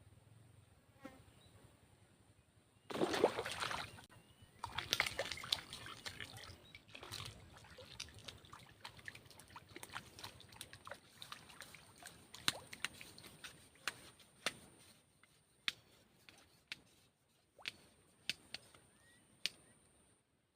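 Water splashing about three seconds in and again a little later, plausibly a hooked climbing perch thrashing at the surface as it is landed, followed by a run of sharp taps and clicks. A faint steady high insect whine sits underneath.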